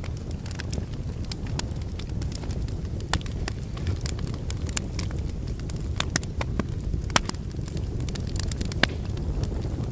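Wood fire burning in a fireplace: a steady low rumble of flames with scattered sharp crackles and pops from the logs, the loudest a little after three, seven and nine seconds in.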